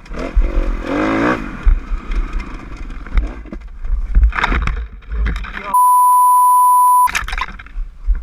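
Dirt bike engine running with wind noise and knocks, its pitch rising and falling in the first second and a half. About six seconds in, a steady, high-pitched censor beep cuts over everything for just over a second.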